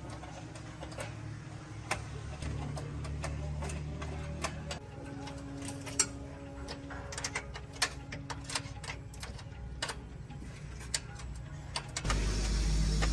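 Irregular sharp metallic clicks and taps of hand tools working on engine parts, over a low steady hum. A louder low rumble comes in near the end.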